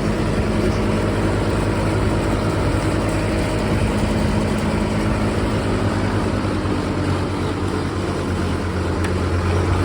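SAME tractor's diesel engine running steadily under load while dragging a felled tree, with a slight dip and then a rise in level near the end.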